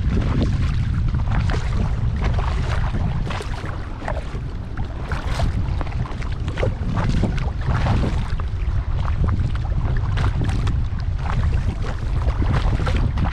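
Kayak paddle blades dipping and splashing in lake water in an irregular run of short splashes. Wind buffets the microphone with a constant low rumble.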